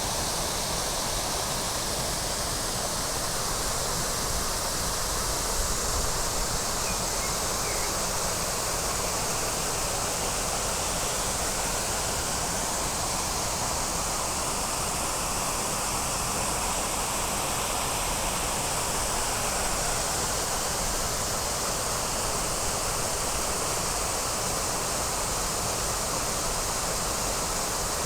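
Waterfall rushing steadily, an even roar of falling water with no break.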